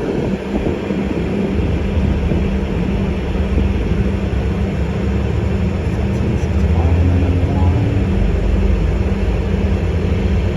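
Alexander Dennis Enviro400 MMC double-decker bus heard from inside while under way: a steady low engine and drivetrain hum with road noise. The hum drops lower about eight seconds in.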